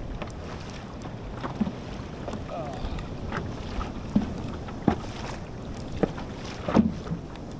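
Water moving along a kayak hull, with irregular short knocks and slaps about a second apart, over steady wind noise on the microphone.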